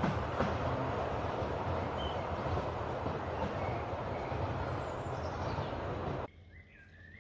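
Steady rolling rumble of a 10¼-inch gauge steam train running away along the track, slowly getting quieter, with faint birdsong behind it. It cuts off suddenly about six seconds in, leaving only faint bird chirps.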